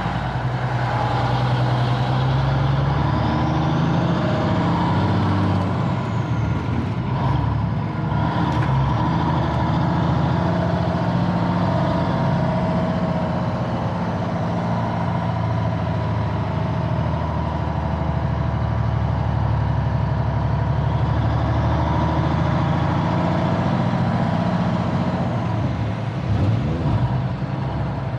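Diesel engine of a 1985 Freightliner cabover semi truck running steadily, with a low, even drone.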